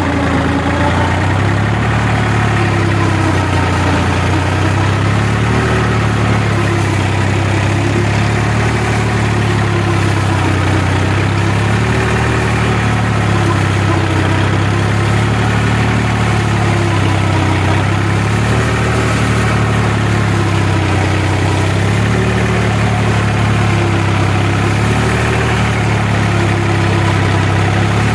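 New Holland tractor's diesel engine running at a steady speed, its note wavering slightly up and down about every two seconds.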